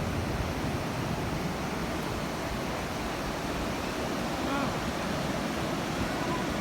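Ocean surf washing onto the beach: a steady rushing wash of waves.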